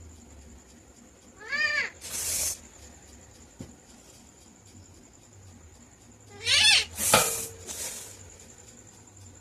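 A parakeet making a meow-like call, rising and falling, followed by a short harsh screech, twice: about a second and a half in and again about six and a half seconds in.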